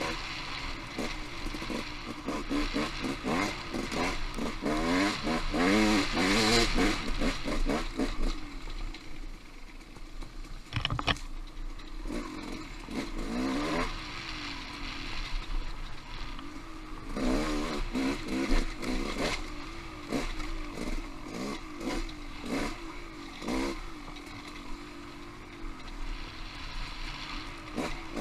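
Off-road motorcycle engine revving up and down over and over as it is ridden, louder for the first several seconds and again a little after the middle, with scattered clattering knocks.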